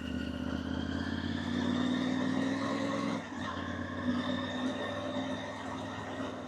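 Motorcycle engine under way, its note rising slowly, then dipping briefly about three seconds in before running on steadily.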